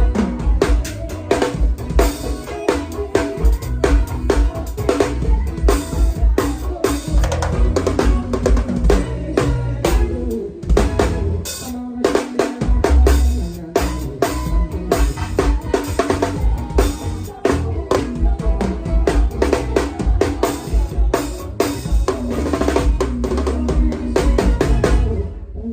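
Drum kit played in a fast forró groove, busy bass drum, snare and rimshots, over a band with bass and keyboard lines.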